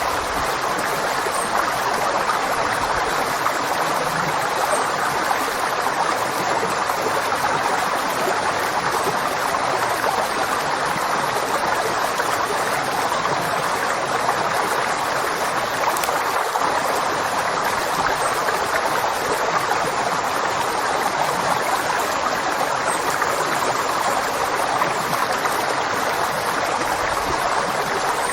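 River water flowing steadily, a continuous rushing and burbling.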